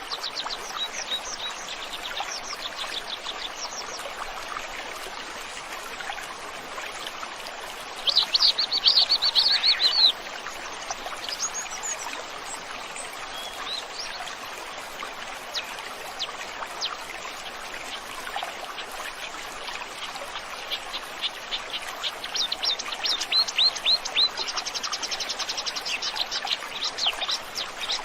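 Flowing stream with songbirds singing over it: quick series of chirps, a loud trilling burst about eight seconds in, and more rapid chirp series near the end.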